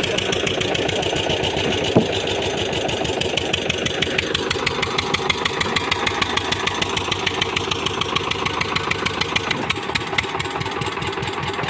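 Tractor diesel engine running steadily with a fast, even firing beat; a single sharp click about two seconds in.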